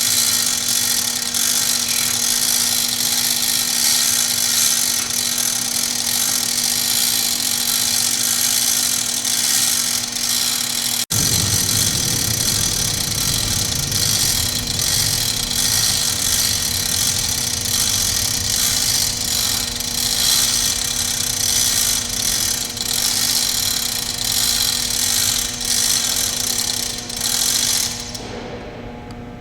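Powered hoist motor running steadily under load as it lifts a 2,500-pound jet engine, a constant hissing whir with a steady hum. It breaks off suddenly about 11 seconds in and resumes with a deeper rumble, then stops near the end, leaving a low electrical hum.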